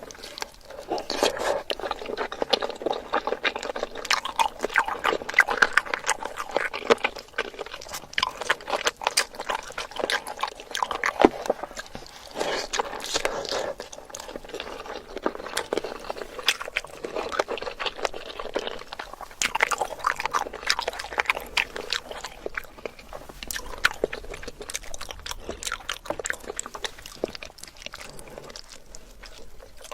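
Close-miked eating: wet, smacking chewing with many irregular small clicks and crunches as a mouthful of food is worked.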